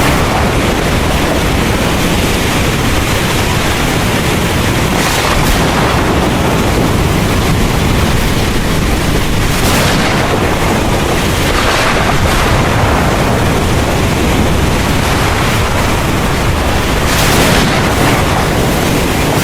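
Heavy rain pouring, with a steady deep rumble of thunder underneath. The hiss of the rain swells briefly a few times.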